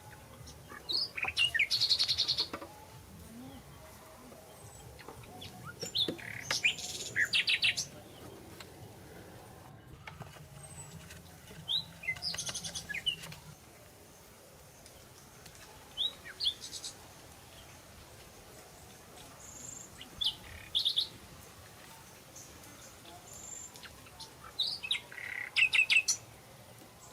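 Small birds chirping in short phrases that repeat every four to five seconds, over a faint outdoor background.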